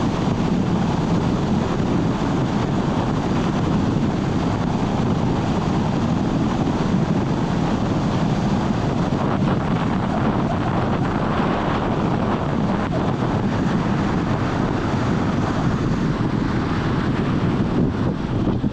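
A car driving along a road: steady road and wind noise, with wind buffeting the microphone.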